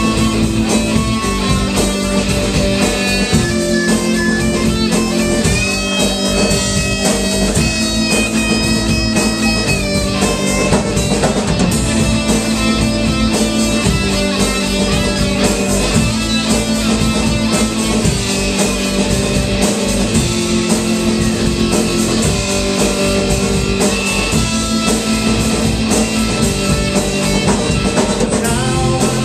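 Rock band playing live: guitars over a drum kit, with a held high guitar note about six seconds in.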